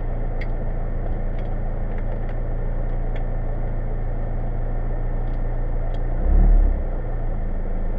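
A BMW 318i rally car's four-cylinder engine idling steadily, heard from inside the cabin. There is a brief low thump about six and a half seconds in.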